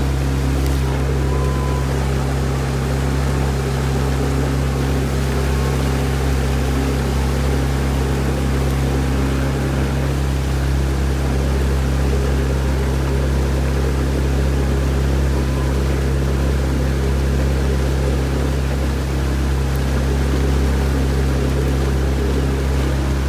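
Motorboat engine running at a steady speed, a constant low drone over a wash of water and air noise.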